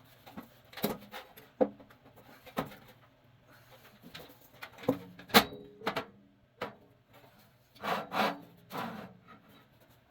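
Irregular knocks, scrapes and rattles of tools and furnace parts being handled, about a dozen separate strikes, the loudest about five seconds in and a quick cluster near eight seconds.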